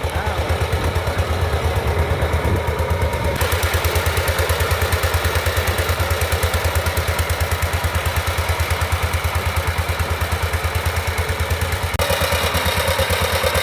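A power tiller's single-cylinder diesel engine chugging steadily with a fast, even beat while ploughing. It turns louder and harsher about three seconds in.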